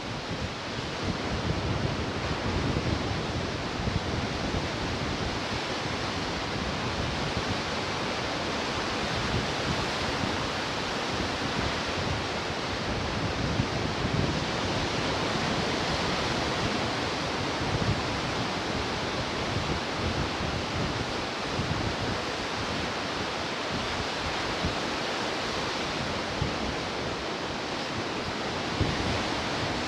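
Ocean surf breaking and washing on the shore: a steady rushing hiss with gentle swells in level.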